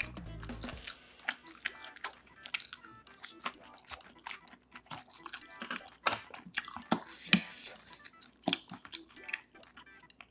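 Close-miked chewing and mouth sounds of eating, with irregular sharp clicks of chopsticks and a spoon against the dishes. A background music bed stops about a second in.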